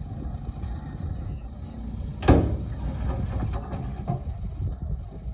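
Heavy earthmoving machinery running with a steady low engine rumble. About two seconds in there is a single loud clank.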